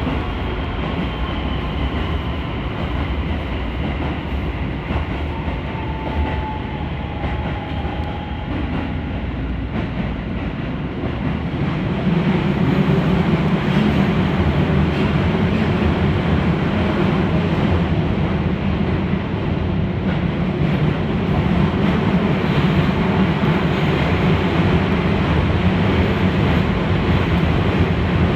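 Keisei 3000 series electric train running along the track, a steady rolling noise with faint whining tones that fall in pitch early on. About twelve seconds in it grows louder with a deeper rumble and stays so.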